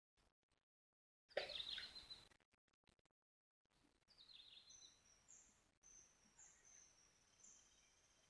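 Faint bird chirps: short high calls repeating over a low background hiss, with one louder call about a second and a half in. The sound drops out to dead silence several times in the first few seconds.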